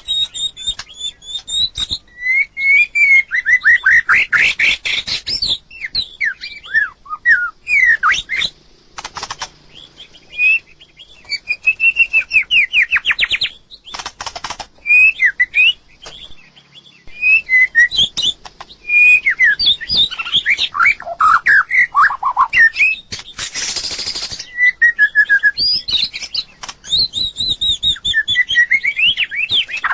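White-rumped shama singing: a long, varied run of whistled phrases that slide up and down in pitch with short pauses between them, broken by a few brief noisy, rasping notes.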